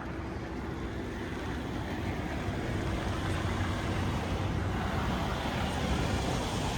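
A car driving, its steady road and engine noise growing gradually louder.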